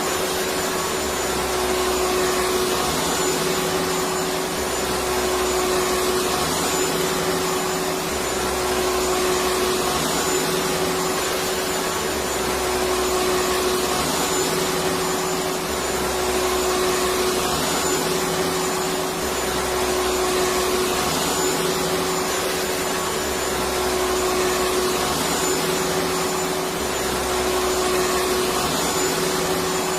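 Electric vacuum cleaner running steadily with a constant whine, with a low throb that swells about every three and a half seconds.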